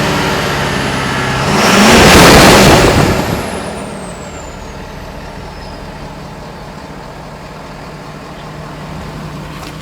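Ford 6.7 L Power Stroke turbodiesel V8 revved once, about a second and a half in, then settling back to a steady idle, with a high whine falling away as the revs drop. Heard from the exhaust.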